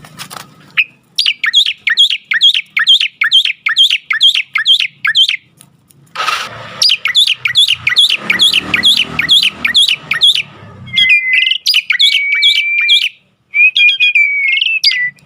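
A jalak (Asian starling) singing: fast runs of repeated falling chirps, about four a second, then held level whistles with chirps laid over them in the last few seconds. A short rough noise breaks in about six seconds in.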